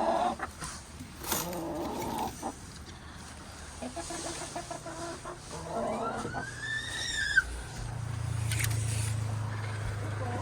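Hens clucking, with one longer call that rises and falls about six to seven seconds in. A low steady hum comes in near the end.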